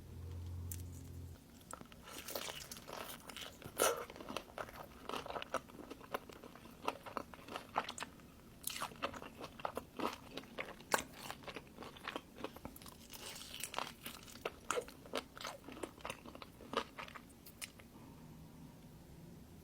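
Close-up eating sounds: crisp bites and chewing of crunchy fried food, a rapid, irregular run of crackling crunches with a few louder bites.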